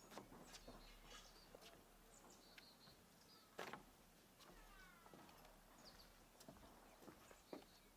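Faint bird calls: many short high chirps and a few falling calls, with scattered soft clicks and one louder click about halfway through.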